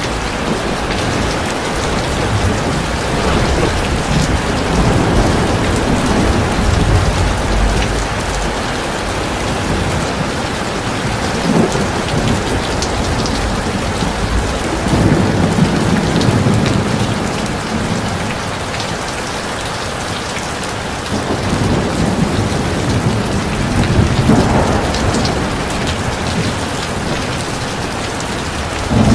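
Heavy rain falling steadily, a dense continuous wash of rain, with low rumbles that swell and fade every several seconds.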